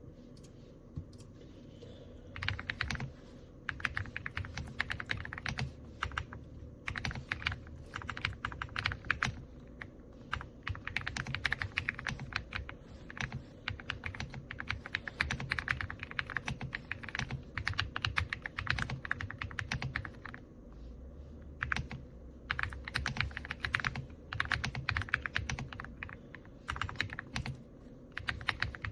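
Fast typing on an AULA F99 mechanical keyboard with pre-lubed linear switches: rapid keystrokes in runs of a second or two with short pauses, starting a couple of seconds in.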